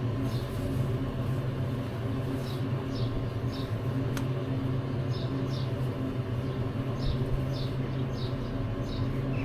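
Motorcycle engine running at a steady, even pitch with no revving. Short high chirps come in twos and threes above it, several times.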